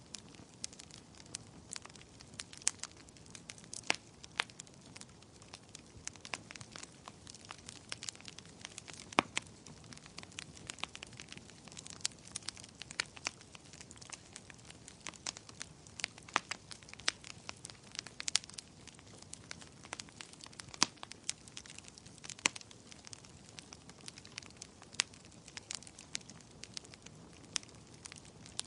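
Fire in a fireplace crackling, with irregular sharp pops and snaps, several a second, over a soft low hiss.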